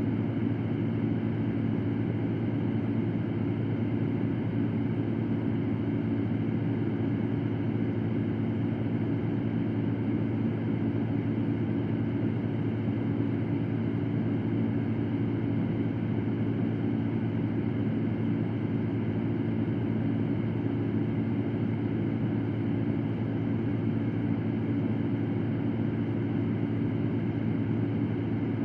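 Electric fan running steadily: a constant low whooshing drone with a faint hum, unchanging throughout.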